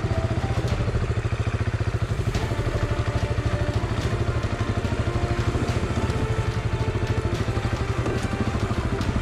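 Single-cylinder adventure motorcycle engine running steadily at low speed with an even pulsing beat, as the bike works through a flooded, muddy forest track, with a few sharp clicks over it.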